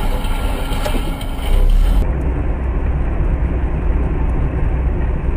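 Car driving, with steady engine and road rumble as picked up by a dashcam in the car. About two seconds in the sound turns abruptly duller and deeper.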